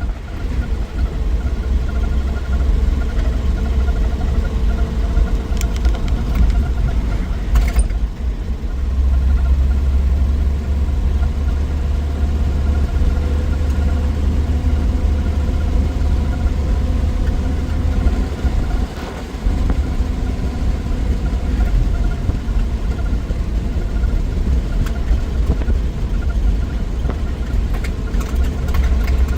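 1963 Willys Wagon's 230 Tornado overhead-cam six-cylinder engine running on the road, a steady, strong low drone with the engine note under it. The sound dips briefly a little after two-thirds of the way through.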